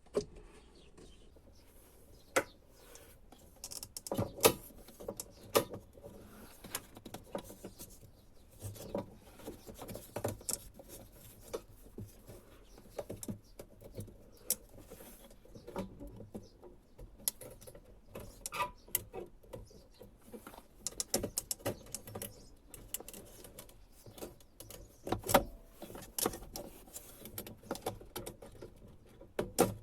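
Irregular clicks, knocks and light rattles of a BMW E39's fuel pump assembly being handled and worked out of the fuel tank opening, with two sharper knocks about four seconds in and near the end.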